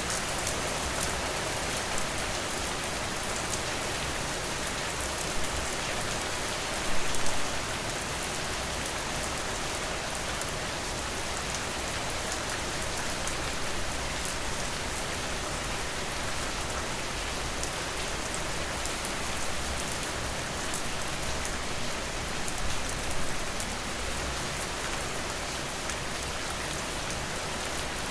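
Steady rain falling, an even hiss of many drops, with a brief cluster of louder knocks about seven seconds in and a smaller one near the end.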